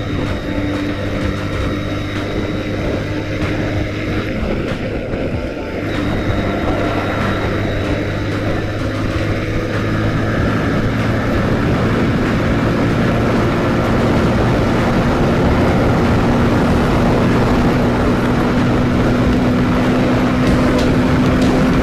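Bajaj Pulsar 150 motorcycle's single-cylinder engine running while riding on the highway, with steady road and wind noise. There is a short dip in the engine note about five seconds in. From about ten seconds on, the pitch rises slowly and the sound grows louder as the bike speeds up.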